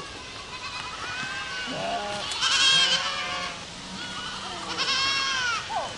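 Herd of goats bleating, several calls overlapping. The loudest, a wavering bleat, comes about two and a half seconds in, and another long bleat comes near the end.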